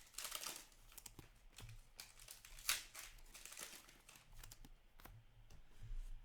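Foil trading-card pack wrappers crinkling and cards being handled, in short rustling bursts with one sharp click about two and a half seconds in.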